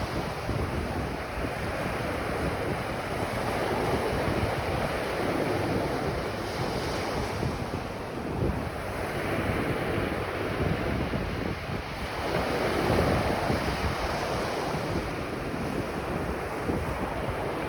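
Ocean waves breaking and washing up a beach, the surf swelling and easing every few seconds, with wind buffeting the microphone.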